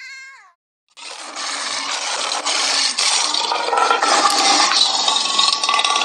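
Lions vocalizing: a brief falling cry cut short, then from about a second in a loud, rough, hissing snarl with a drawn-out whining cry.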